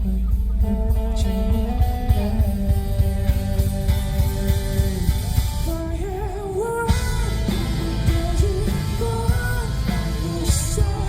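Live indie rock band playing: a male voice singing a melody over electric guitar, bass and a drum kit keeping a steady beat.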